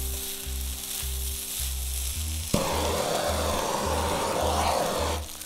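Fried rice sizzling in a hot wok. About two and a half seconds in, a louder hissing rush comes in suddenly as a blowtorch flame is played over the rice to char it for wok hei. Background music with a steady bass beat runs underneath.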